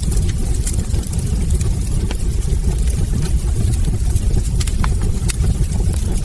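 Wood fire burning in a fireplace: a steady low roar of flames with scattered sharp crackles and pops from the logs.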